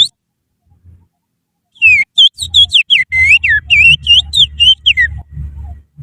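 Human finger whistling (little finger in the mouth) imitating the song of an Oriental magpie-robin (kacer). A brief phrase opens it; about two seconds in comes a rapid run of sliding whistled notes, each rising or falling, lasting about four seconds.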